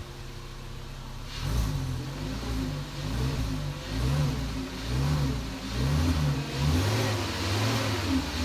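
Car engine breathing through a newly fitted Flowmaster Super 44 muffler, idling steadily, then blipped in quick repeated revs about once a second from about a second and a half in. The exhaust note is deep.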